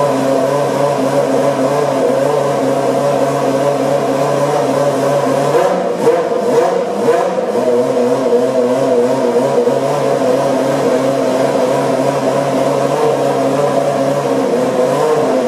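Ferrari Formula 1 car engine idling steadily in the pit garage, with a few quick blips of the throttle about six seconds in before it settles back to idle.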